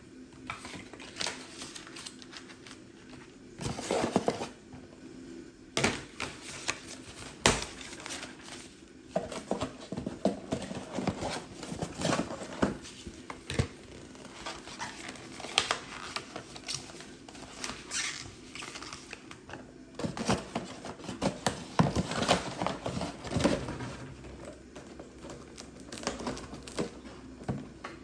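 Household objects being handled: irregular clicks, taps and knocks with some crinkling, over a faint steady hum.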